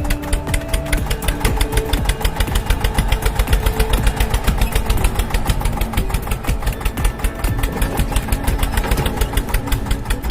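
A small motor on a DIY toy mini tractor running steadily under load, with a fast, even knocking rhythm of several beats a second.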